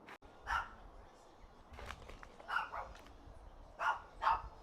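A dog barking: about six short barks at uneven intervals.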